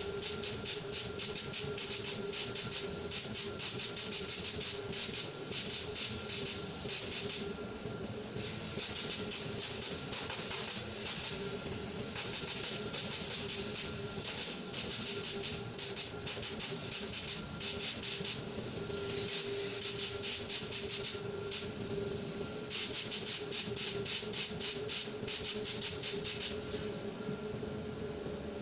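Sandblasting gun blasting abrasive in rapid pulses of hiss, about four a second. It breaks off briefly a few times and stops shortly before the end, over a faint steady hum.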